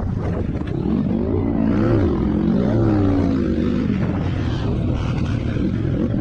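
Motocross bike engines revving, their pitch rising and falling, most clearly about two to three seconds in.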